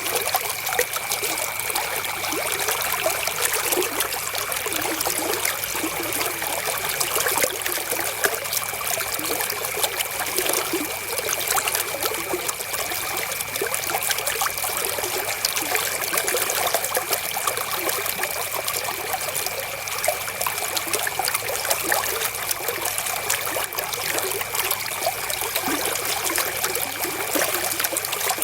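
River water flowing, a steady trickling rush without let-up, with a thin steady high tone running faintly underneath.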